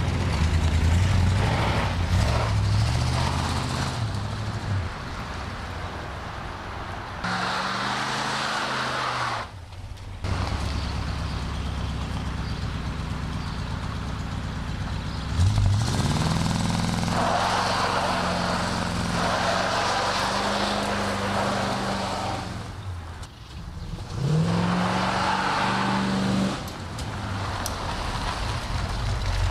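1967 Buick GS 340's V8 driving under hard acceleration, its pitch climbing in three strong pulls, with brief drops where the throttle is lifted between them.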